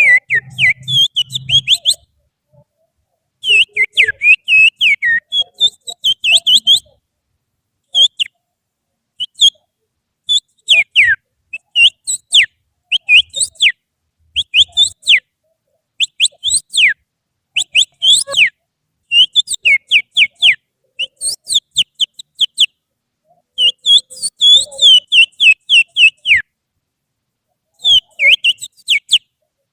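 Loud finger whistling, a person whistling through the little finger to mimic an oriental magpie-robin's song: short, sharp notes that mostly drop in pitch, delivered in rapid runs of one to three seconds with brief pauses between. It is used as a provoking call to set off a caged magpie-robin.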